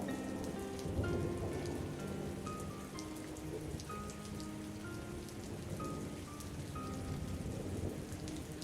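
Steady rain with a low thunder rumble swelling about a second in, over faint, slow melodic music.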